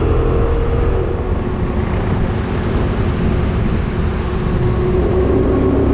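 Motorcycle engine running steadily at highway cruising speed, with heavy wind rumble over the microphone.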